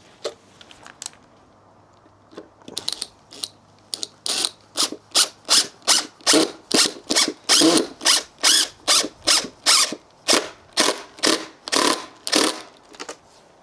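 A hand tool worked on wood in steady, even strokes, a little over two a second, after a few scattered clicks and knocks.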